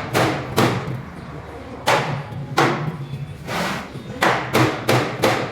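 Hammer blows on metal, about eight strikes at an uneven pace, each ringing briefly, over a steady low hum.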